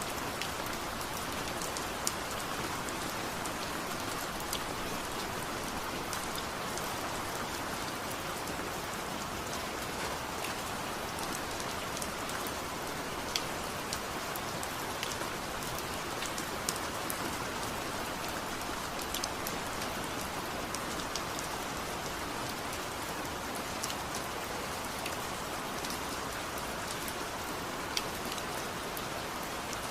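Steady rain falling, a constant hiss with irregular sharp ticks of individual drops scattered through it.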